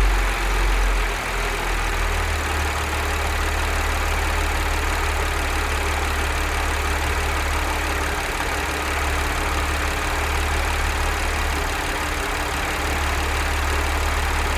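Audi S4 B8's supercharged V6 idling steadily after a cold start, with a heavier low rumble for the first second or so. This engine has a worn timing chain, the cause of its cold-start rattle.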